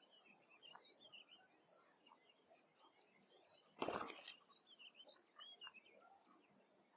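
Faint songbirds chirping and warbling in quick wavering notes, with a short loud burst of noise about four seconds in, the loudest sound.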